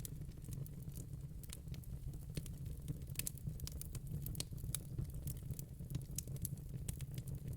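Wood fire crackling, with many small sharp pops at irregular intervals over a steady low rumble.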